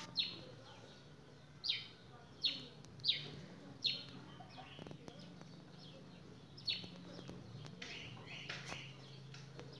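A bird chirping: short, quick calls that fall in pitch, five in the first four seconds and two more later, over a low steady hum.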